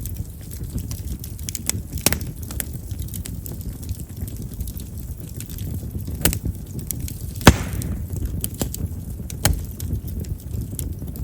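Chestnut firewood burning in an open fire, crackling with scattered sharp pops over a low steady rumble; the loudest pop, about seven and a half seconds in, is followed by a brief hiss. Chestnut is known as a popping wood because of its large vessels.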